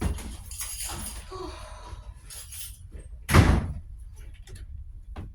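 A door slams shut once, heavily, about three seconds in, with small knocks and rustling around it.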